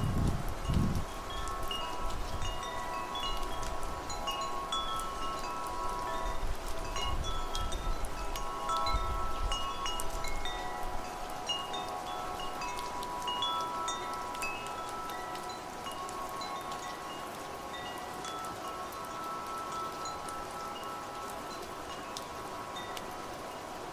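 Wind chimes ringing in the wind, many overlapping notes sounding at random. Low gusts of wind come in the first half, and the whole grows gradually quieter toward the end.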